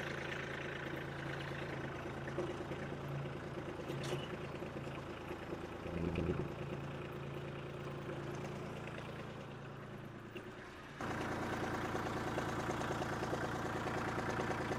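Kubota B2261 compact tractor's three-cylinder diesel idling just after start-up while the front-loader hydraulics are worked, with a brief swell in the engine sound about six seconds in. About eleven seconds in the sound jumps abruptly louder and closer, the same engine still idling.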